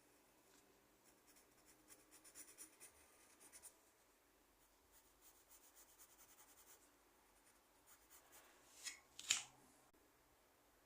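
A drawing tool scratching on paper in quick runs of short strokes, with two louder strokes near the end.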